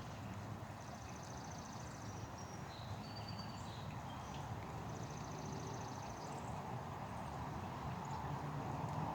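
Steady low outdoor background rumble, with a small songbird's rapid high trill about a second in and again about five seconds in, and a few short chirps around three seconds.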